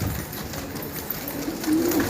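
Domestic pigeons cooing, with one low drawn-out coo near the end.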